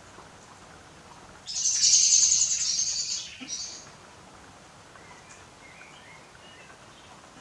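A bird gives a loud, high, rapid trill lasting about two seconds, starting a second and a half in, followed later by a few faint chirps.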